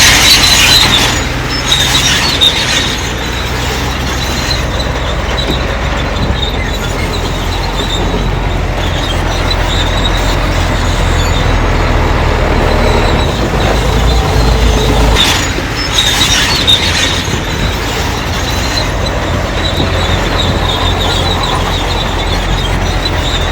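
Crawler bulldozer working: diesel engine running steadily under load while its steel tracks squeal and clank, with the loudest squeals at the start and again about two-thirds of the way in.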